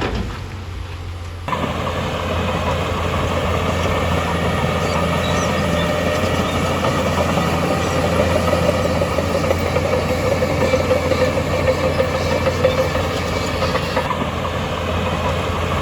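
Heavy diesel earthmoving machine's engine running steadily under load, with a dense mechanical clatter over a low hum; the sound changes abruptly about a second and a half in.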